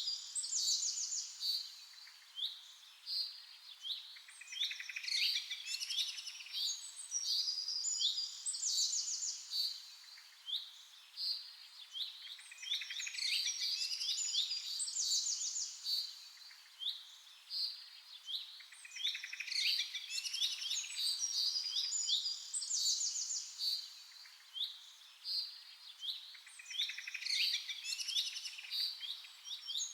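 Many small songbirds chirping and singing over one another, in a dense run of short high calls. A busier burst of calls recurs about every seven seconds.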